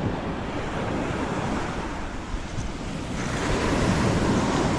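Sea waves breaking and washing up a beach, with wind on the microphone; the surf swells louder about three seconds in.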